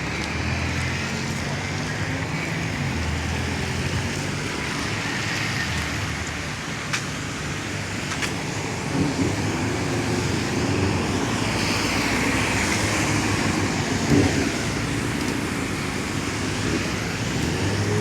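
City street traffic in the rain: vehicle engines running and passing, over a steady hiss of rain and wet road. Brief voices of passers-by now and then.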